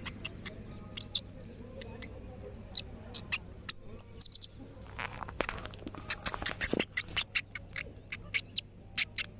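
Palm squirrel chirping: short, sharp, high-pitched chip calls, scattered at first and then coming fast, about three to four a second, from about halfway through. A brief high falling whistle sounds near the middle.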